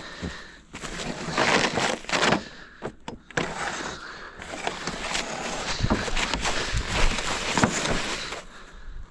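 Deep fresh snow crunching and scraping in uneven bursts as a sled and a person push through it, with a few dull thumps.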